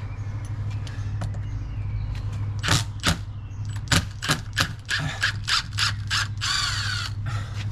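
A run of sharp clicks and knocks from about two and a half seconds in, with a short scraping sound near the end, over a steady low hum. The clicks are most likely from handling a plastic rainwater downpipe and its fittings before it is taken off.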